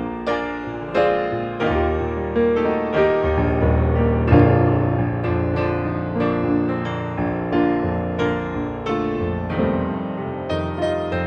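Piano playing chords over a bass line, with new notes struck about once or twice a second and each ringing down before the next.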